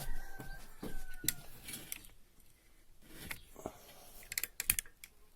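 Small metal injector parts being handled, with light clicks and clinks and a faint brief ringing in the first second. A quick run of taps comes near the end.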